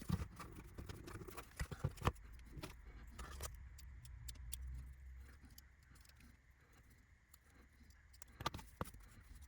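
Scattered light clicks and taps of small laser-cut wooden kit parts being handled and worked on a workbench, with a faint low hum behind.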